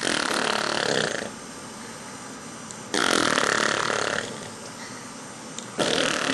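A baby's raspy, throaty vocal noises: two drawn-out croaks about a second long, three seconds apart, and a third starting near the end.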